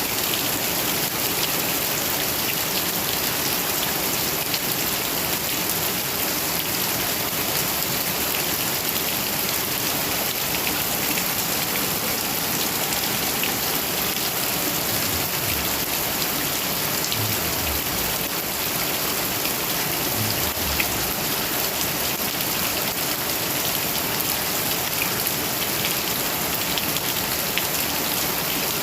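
Heavy rain falling steadily, a dense hiss with many scattered sharp drop ticks.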